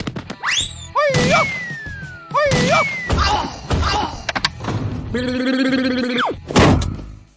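Cartoon sound effects over background music: a run of thuds and knocks, wobbling and sliding whistle-like tones in the first few seconds, a held tone, then a heavy thud near the end.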